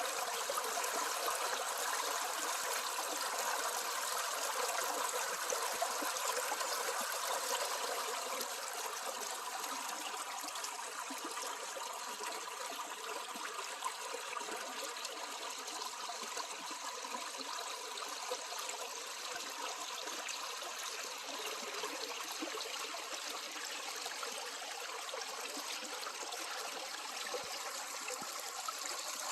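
Running water trickling steadily, a natural stream flow, a little louder over the first eight seconds or so.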